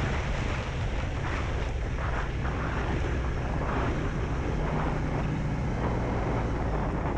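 Honda CB300F single-cylinder engine running steadily at cruising speed, with wind rushing over the microphone.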